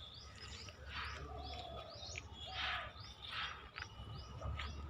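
Birds chirping: short high calls repeated several times a second, with a few lower gliding calls in between.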